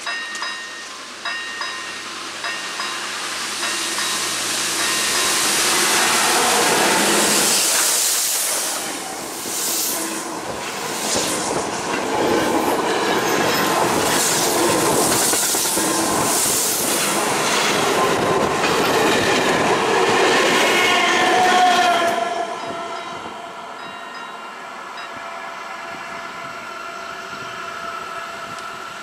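Czech steam locomotive 475.179 and its train pass by: the locomotive's exhaust and running noise swell to a loud rush, with the wheels clattering on the rail joints. About three quarters of the way through, the noise drops away to a quieter, steady rolling of the carriages.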